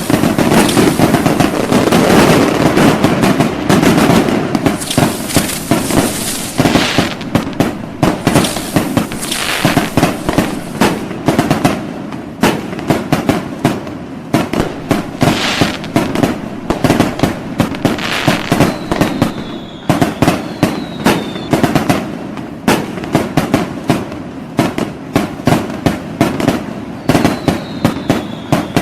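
Fireworks going off in a rapid, continuous barrage of bangs and crackling, densest in the first ten seconds. Short falling whistles come through a few times in the second half.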